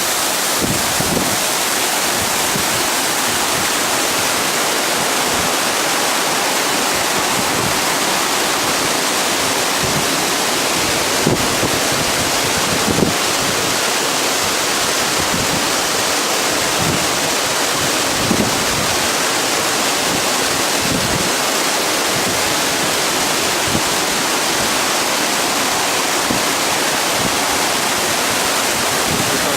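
Waterfall pouring over a rock wall: a steady, loud rush of falling water.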